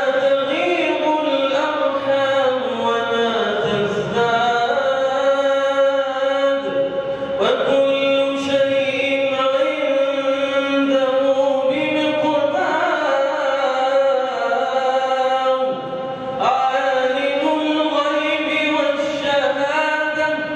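A man chanting Quranic recitation in a melodic style, holding long ornamented notes and pausing briefly for breath several times.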